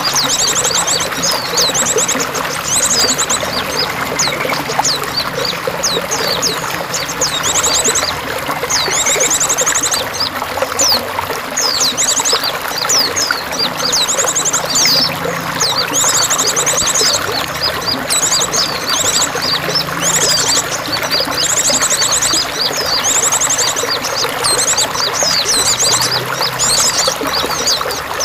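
Running water pouring and trickling steadily, with small songbirds chirping over it in quick high notes and rapid trills about a second long, repeated throughout.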